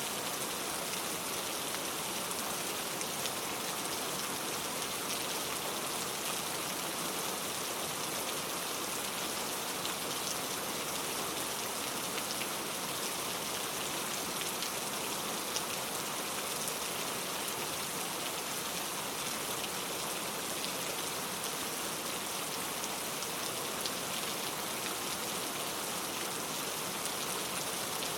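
Steady heavy rain falling, a dense even hiss with many fine drop ticks on a hard surface; no thunder.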